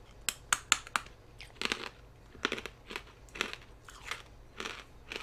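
A person chewing small hard candy sticks, with four sharp crunches in the first second and then softer, irregular chewing.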